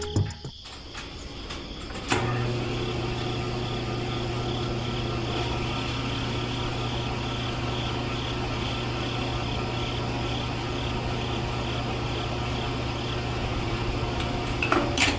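A small DC hobby motor is switched on with a click about two seconds in, then runs with a steady, even hum.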